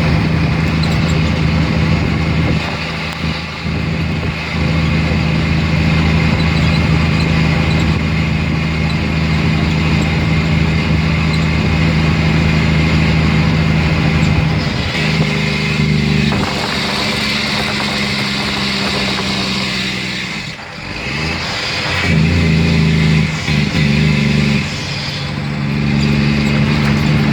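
A 2004 Mack Granite dump truck's diesel engine running while the truck is under way. The engine note shifts about fifteen seconds in, dips briefly around twenty seconds in, then comes back strong.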